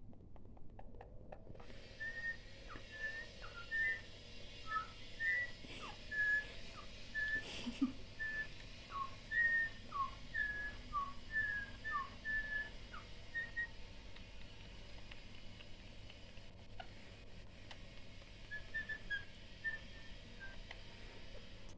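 Indian ringneck parrot giving a string of short, high whistled notes, some sliding down in pitch, as part of her courtship display ('love dance'). The notes thin out after about thirteen seconds and return briefly near the end, with one soft knock about a third of the way in.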